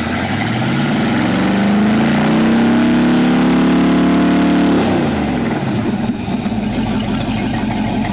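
Pontiac 326 V8 revved by hand at the carburetor throttle linkage: it rises from idle over about a second and a half, holds the higher revs for about three seconds, then drops back to idle.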